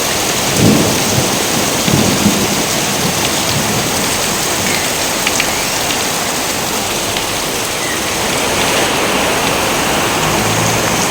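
Steady heavy rain with thunder crackling and rumbling in the first few seconds. A low hum comes in near the end.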